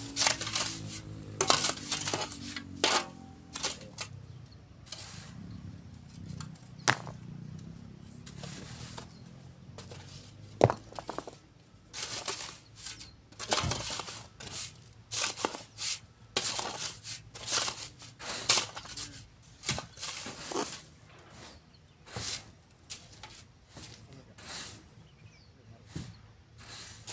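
Manual sand loading with metal tools: a run of irregular scraping and clinking strokes as sand is shovelled and sifted, coming closer together in the second half.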